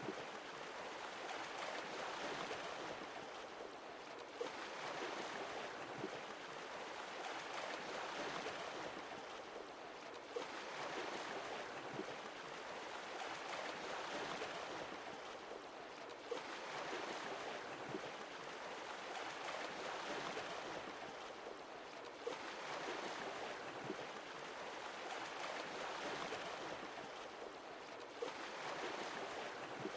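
Sea waves washing in and drawing back, a new wave about every six seconds, each arriving with a brief sharp splash.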